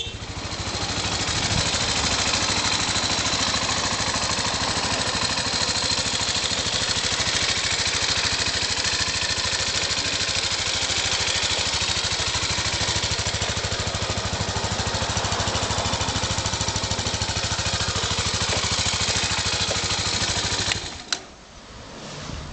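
Honda CBX125 Custom's single-cylinder four-stroke engine idling steadily, then switched off about a second before the end, with a click as it stops.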